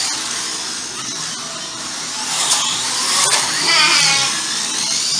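Slot cars racing round the track, their small electric motors whining and rising and falling in pitch as they speed up and slow down.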